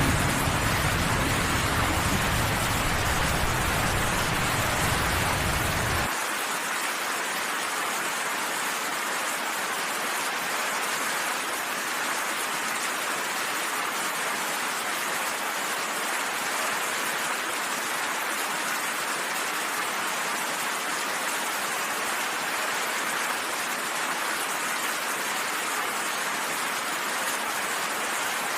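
Steady, dense rainfall, an even hiss of rain. A low rumble underneath it stops suddenly about six seconds in, leaving only the rain.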